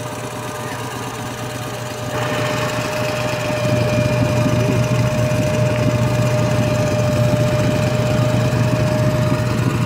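A car engine running at low speed, getting louder about two seconds in and again a little later.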